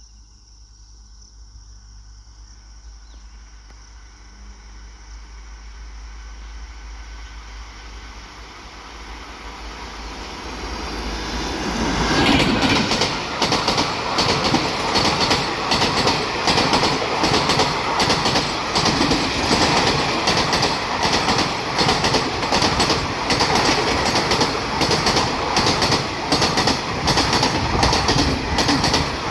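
A WAP-4-hauled superfast express train approaching, its rumble building for about twelve seconds. It then passes close at speed, with a rapid, steady clatter of wheels over the rail joints.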